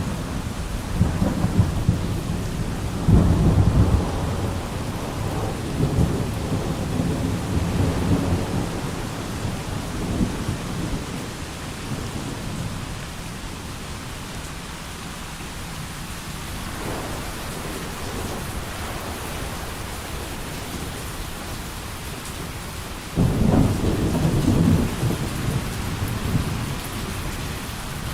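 Thunderstorm: steady heavy rain with rolling thunder, rumbling through the first ten seconds or so, easing to rain alone, then a fresh loud rumble of thunder a little after twenty seconds in.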